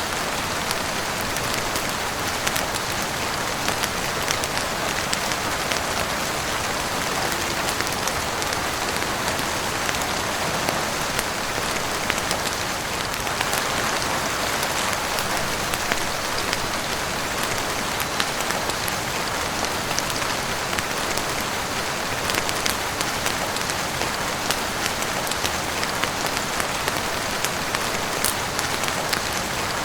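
Heavy rain falling on a roof and windows: a steady, even hiss with many small sharp ticks scattered through it.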